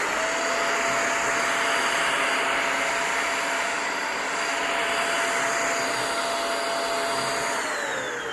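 Cordless stick vacuum running at full speed, a steady high motor whine over the rush of suction air, then winding down near the end as it is switched off.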